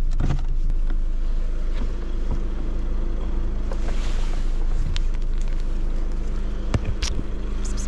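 A Volkswagen car's engine idling steadily, heard from inside the cabin with the driver's door open. Near the end come a few short sharp crackles as a plastic cat food pouch is torn open.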